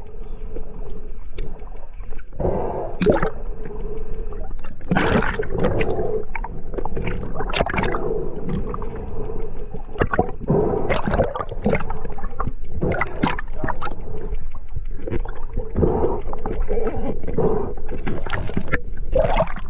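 Water gurgling and rushing around a diver in the sea, with irregular gushes of bubbles over a steady hum.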